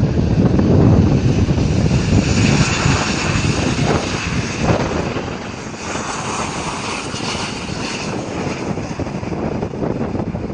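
Airliner engines heard as a plane passes, with a higher whine that comes in about two seconds in and fades near the end, over wind buffeting the microphone.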